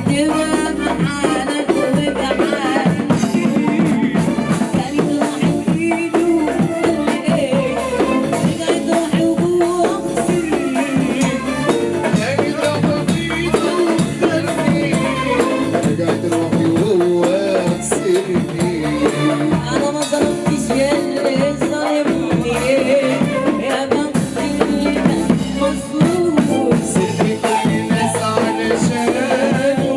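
Live band rehearsing an Arabic song, with drums and a shaker keeping a steady beat under a wavering melody line and a male singer's voice.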